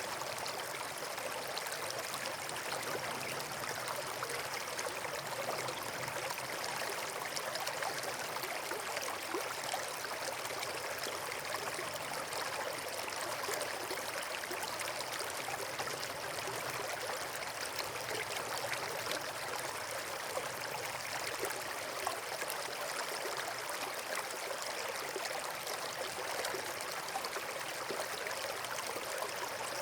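Running water rushing steadily, like a stream or small waterfall, with an even, unchanging hiss.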